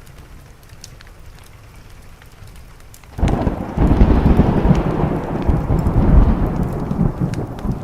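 Steady rain with faint scattered crackles, then about three seconds in a loud thunderclap breaks suddenly and rolls on as a heavy rumble, easing off slightly near the end.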